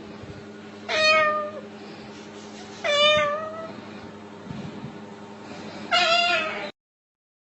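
Three drawn-out meows, about two seconds apart, over a steady low hum; the sound cuts off suddenly near the end.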